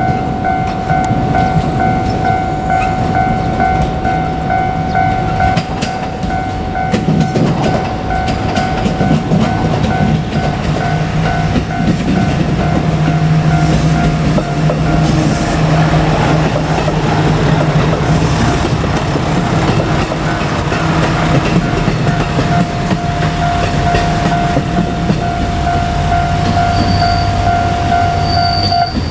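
Level-crossing warning bell ringing steadily as a JR Kyushu KiHa 200 diesel railcar passes over the crossing. The railcar's diesel engine and its wheels on the rails fill the middle of the stretch, and the bell stands out clearly again near the end.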